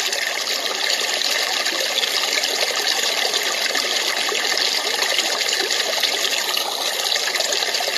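Portable white noise machine playing its babbling-brook sound through its small built-in speaker: a steady, unbroken running-water trickle.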